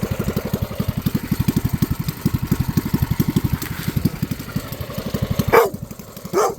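Predator 212cc single-cylinder four-stroke engine with a straight pipe, idling with a steady, even pulse. Near the end a brief loud sound with a sliding pitch cuts in, the idle drops out for a moment, and a second short one follows.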